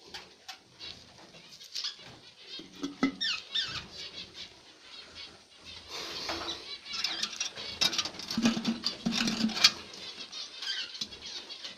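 Budgerigars chirping and fluttering their wings, with scattered clicks and knocks as clay nest pots and their lids are handled and fitted to the cage.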